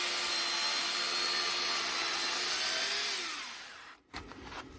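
Electric saw cutting into oak logs at a steady motor pitch. About three seconds in it is released; the motor winds down and stops entirely rather than idling.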